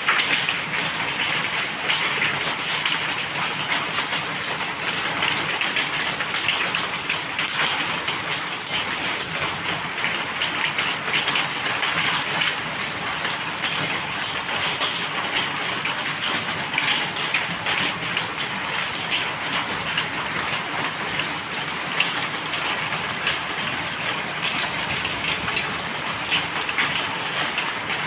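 Heavy rain pouring steadily, a dense, even patter of drops striking surfaces.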